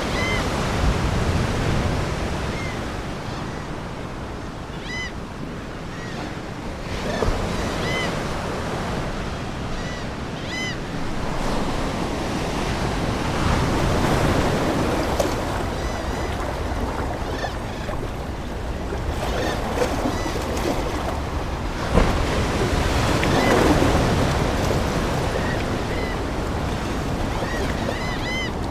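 Ocean surf washing in continuously, with waves swelling and breaking every several seconds. Short seagull calls repeat about every two seconds over the surf.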